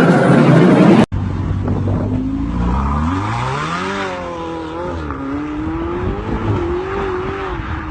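Loud engine noise from cars in a tunnel stops abruptly about a second in. Then a Ferrari's engine revs hard as the car accelerates away, its pitch climbing steeply and then holding high with small rises and dips.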